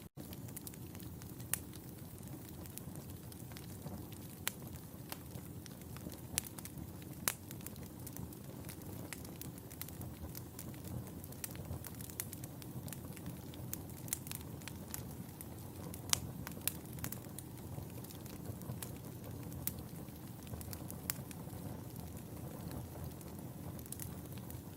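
Fireplace fire crackling: a steady low rumble of flames with irregular sharp pops and snaps scattered throughout, a few louder pops standing out.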